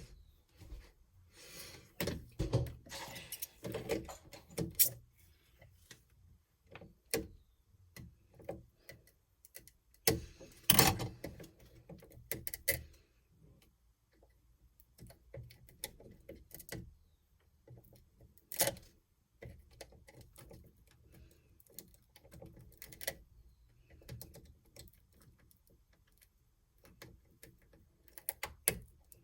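Small plastic Lego pieces being handled and fitted together: irregular clicks, taps and rattles, with louder clusters a few seconds in and near the middle.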